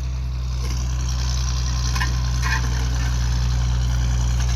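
Tractor engine running steadily in a low drone, growing slightly louder.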